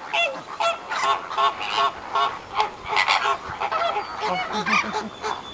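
A flock of flamingos honking: many short, goose-like calls overlapping in a continuous chorus.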